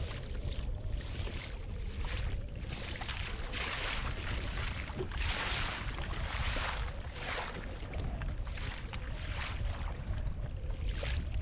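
Water splashing repeatedly against a kayak in choppy lake water, about once or twice a second, over a steady rumble of wind on the microphone.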